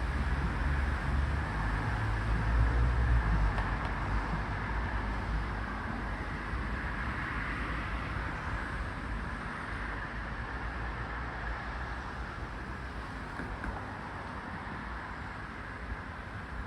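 Brown Bunyip cicada (Tamasa tristigma) calling: a steady, unbroken drone. Low wind rumble on the microphone in the first few seconds.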